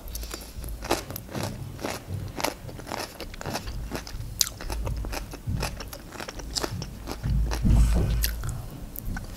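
Chewing a crisp raw green vegetable stick: a rapid run of sharp, short crunches, spaced a little more widely near the end.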